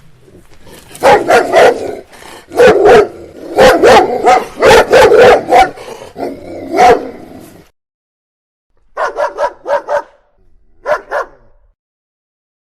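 A dog barking repeatedly in loud, sharp barks for several seconds. After a short pause comes a quicker, higher-pitched run of about five short barks, then two more.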